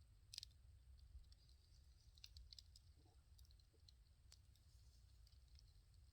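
Burning firewood crackling faintly: a handful of sharp, scattered pops and snaps over a low, steady rumble.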